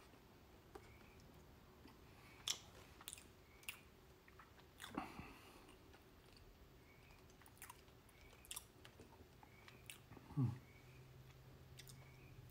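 Faint, close-up chewing of a mouthful of buttered corn muffin, with soft wet mouth clicks and lip smacks and a few sharper clicks scattered through.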